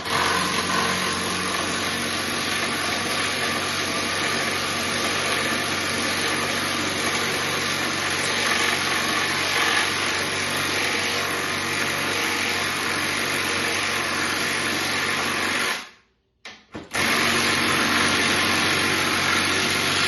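Milwaukee M12 FUEL cordless power tool driving a long screw into wood, running steadily under load. It stops about 16 seconds in, gives two short blips on the trigger, then runs again until it cuts off near the end.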